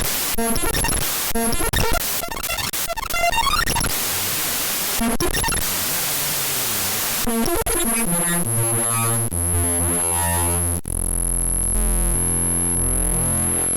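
Computer icon files' raw data played back as audio: choppy digital noise and static bursts, a stretch of steady hiss around the middle, then blocky, stepped buzzing tones under a steady high whine in the second half.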